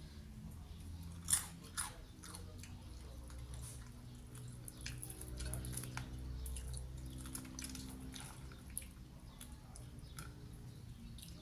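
A person biting and chewing crisp batter-fried food, with scattered sharp crunches, the loudest about a second in, over a low steady hum.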